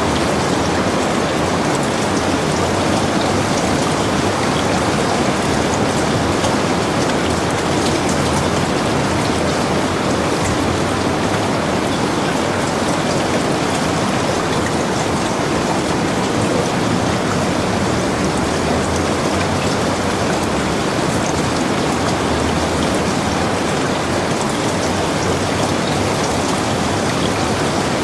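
Heavy rain falling steadily, with a dense patter of drops hitting surfaces.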